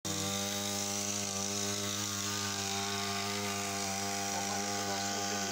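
Small two-stroke petrol engine of a portable power sprayer running at a steady speed.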